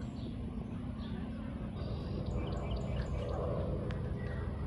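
Small birds chirping in short, high notes, with a quick run of chirps a couple of seconds in, over a steady background rumble.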